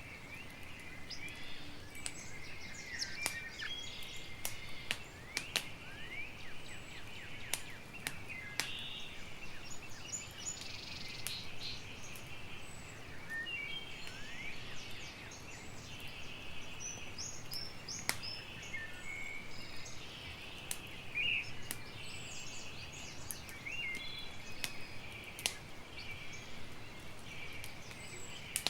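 Campfire crackling with frequent sharp pops, over a steady outdoor chorus of birdsong and insect chirps.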